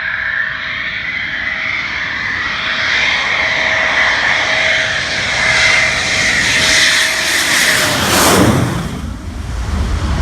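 Military jet engine running with a steady whine as the jet passes close by, loudest about eight seconds in, then fading.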